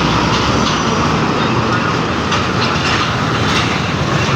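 Loud, steady rumble of a heavy truck on the move.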